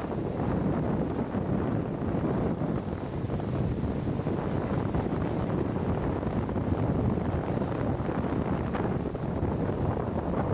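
Steady wind noise on the microphone of a small motorboat underway, with the boat's motor and the rush of water blended in underneath.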